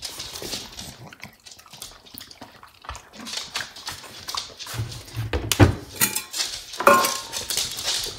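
A dog making short vocal sounds amid scuffling, clicks and a few dull knocks.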